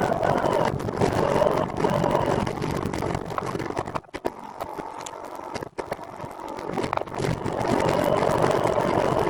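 Rumbling noise of riding: wind buffeting the microphone together with rolling noise, which drops away for a couple of seconds around the middle and then returns.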